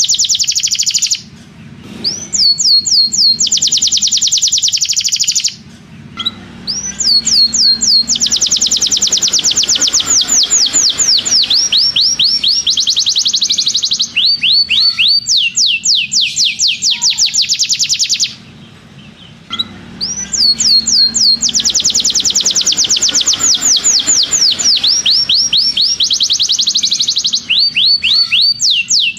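Canary singing long rolling trills: fast runs of repeated high whistled notes, with a few changes of note type. The song breaks off three times for pauses of about a second, a little after the start, near 6 s and near 19 s.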